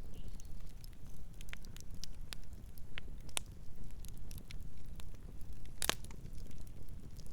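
Campfire crackling: scattered sharp pops and snaps of burning wood over a low steady rumble, with one loud pop about six seconds in.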